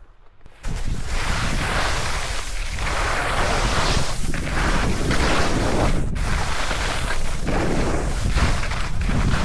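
Wind rushing over the microphone while skiing downhill, cutting in suddenly about half a second in and running loud and unsteady after that.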